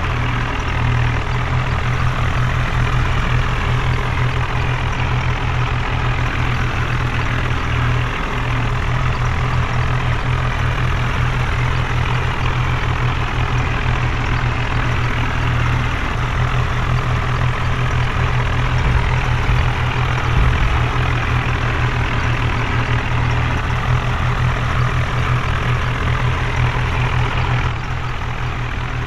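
Heavy diesel engine running steadily, with a deep throbbing low end and a broad noisy rush above it.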